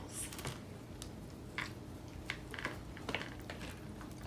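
Light clicks and taps of utensils against takeout containers, about half a dozen scattered over a few seconds.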